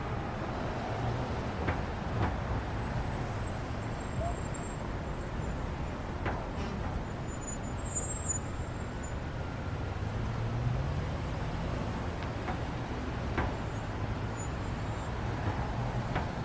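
Road traffic noise: a steady low engine rumble with a few scattered clicks and knocks.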